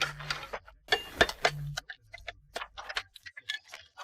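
Slate slabs being handled: an irregular run of light clicks and taps of stone against stone and the work surface.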